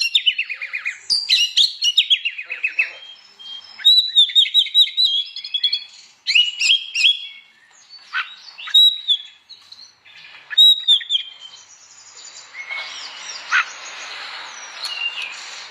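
Oriental magpie-robin (kacer) singing a loud, varied song: runs of repeated arched whistles and quick trills broken by short pauses, with softer hiss under the last few seconds.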